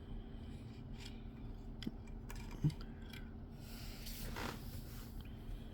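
Faint handling noises of a small diecast model truck being moved about in the hands: two small clicks, then a brief scrape about four seconds in, over a low steady hum.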